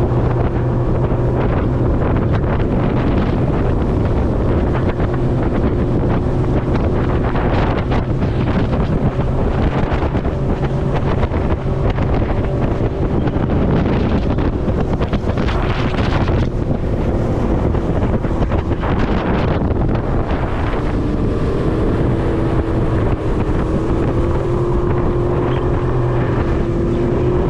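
Motorboat engine running steadily at speed, with heavy wind noise on the microphone and water rushing past the hull. The engine's pitch shifts slightly about two-thirds of the way through.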